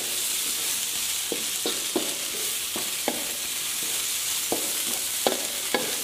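Tofu and tempeh sizzling steadily in hot margarine in a wok as they are stir-fried. A spatula scrapes and taps against the wok at irregular intervals, about every half-second to a second.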